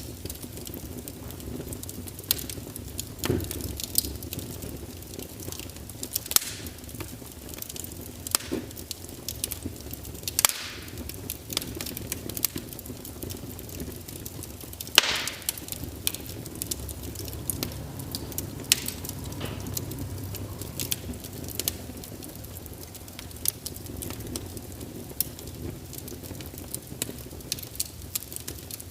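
Wood fire crackling in a fireplace: irregular sharp pops and snaps over a low steady rumble, with a louder pop about halfway through.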